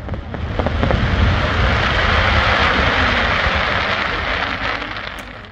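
Fireworks display: a dense hissing rush from many bursting shells over a low rumble, building about a second in and fading away near the end.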